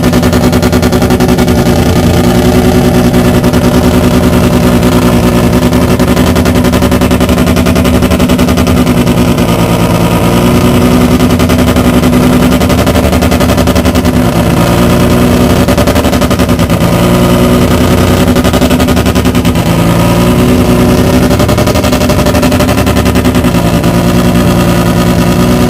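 Mazda rotary racing engine of a 1985 Fuji Grand Champion-spec MCS race car running very loudly at a fairly steady speed, with only slight changes in pitch.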